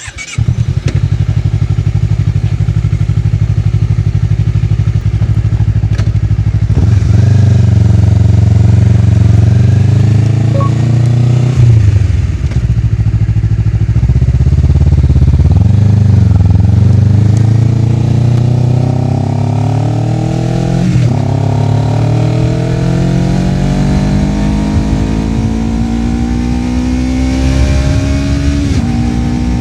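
Honda CBR250RR's parallel-twin engine with a Yoshimura R-11 slip-on exhaust fires up right at the start and runs at a steady idle. From about seven seconds in the bike pulls away, its pitch climbing through the gears with a brief dip at each upshift, three times.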